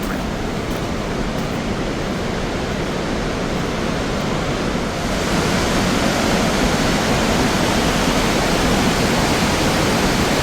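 Rush of Gullfoss waterfall, a steady noise of heavy falling water that grows louder and brighter about five seconds in.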